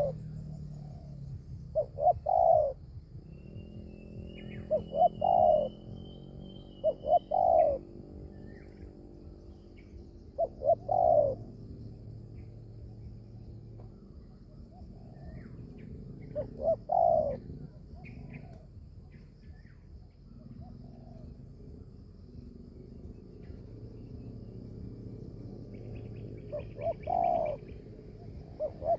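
Spotted doves cooing: short phrases of two to four low, rolling coo notes, repeated every few seconds with gaps of quiet between them. A few thin, high chirps from a small bird come in between the phrases.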